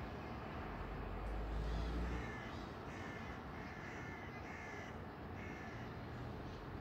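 A bird calling in a run of about six short calls in the middle of the stretch, over a low outdoor rumble that is loudest in the first two seconds.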